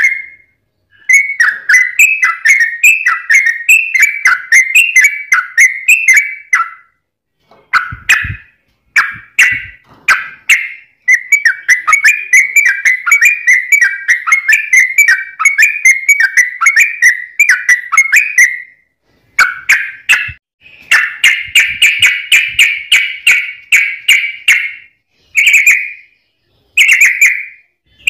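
Yellow-vented bulbul (trucuk) singing loud, fast runs of sharp whistled notes in phrases of a few seconds, with short pauses between them, a song style said to carry straw-headed bulbul (cucak rowo) variations. A faint low thump comes about eight seconds in.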